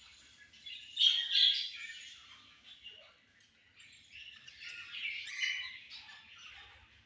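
Budgerigars chirping and chattering: a loud cluster of squawky chirps about a second in, a quieter lull, then another run of chirps around the middle to five seconds in.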